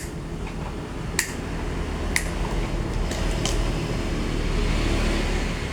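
Gas burner of a homemade deep fryer alight, a steady low rumble with a hiss that swells about four seconds in, over several sharp metallic clicks.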